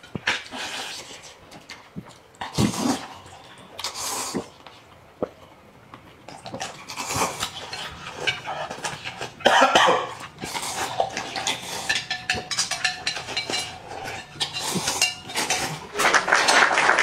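Chopsticks and bowls clattering with bursts of eating noises as people eat quickly. Near the end a dense, steady rush of noise begins.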